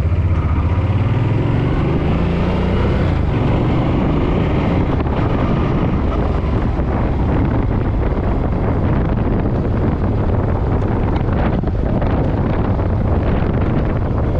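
Suzuki Boulevard M50 V-twin motorcycle engine pulling up through a gear, its pitch rising over the first couple of seconds, then running steadily at road speed, with wind rushing across the microphone.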